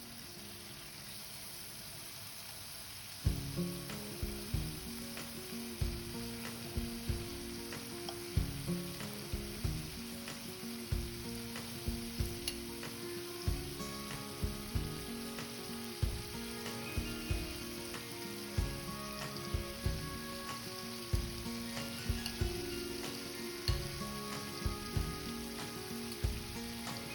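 Marinated chicken pieces sizzling steadily as they fry in hot butter in a pan.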